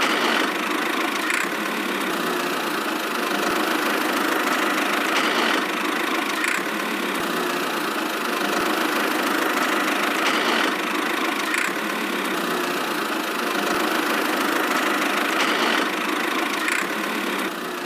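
A small motor driving a miniature DIY tractor machine runs steadily without letting up, with faint clicks recurring about every five seconds.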